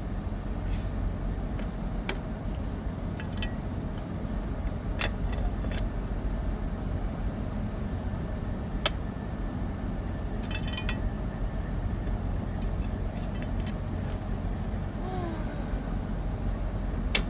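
Steady low engine hum of idling vehicles, with a few sharp metallic clinks and taps from tire-changing tools (jack and lug wrench) scattered through it.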